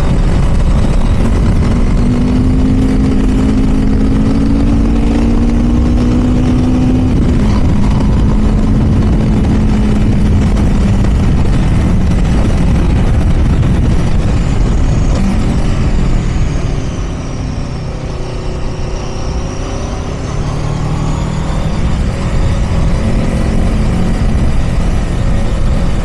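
Aprilia RSV4 V4 superbike engine running under way over a steady rush of noise. Its pitch rises through the first several seconds, the level drops as it slows about two-thirds in, then it picks up again near the end.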